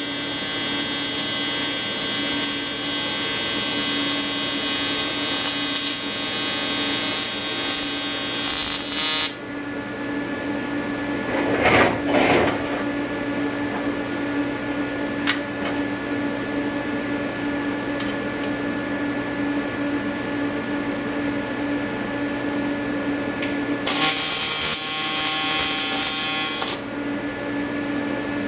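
AC TIG welding arc on an Everlast 325EXT, set to advanced square wave at 100–150 Hz with pure argon shielding, buzzing steadily. The arc cuts off about nine seconds in, comes back for about three seconds near the end, and a steady hum runs underneath. A brief rush of noise comes around the middle.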